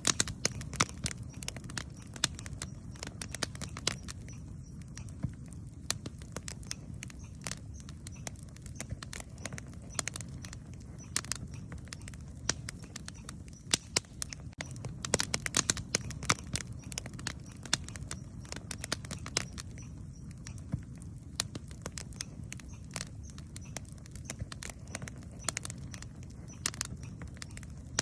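Campfire crackling: irregular sharp snaps and pops of burning wood, a few louder than the rest, over a steady low rumble.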